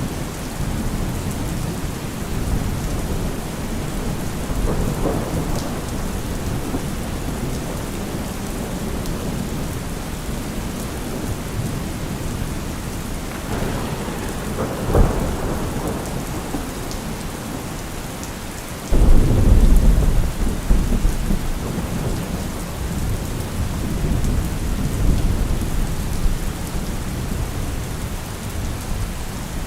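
Heavy rain falling steadily, with low rumbles of thunder: a short swell about halfway through, then a louder rumble that starts suddenly about two-thirds in and fades over several seconds.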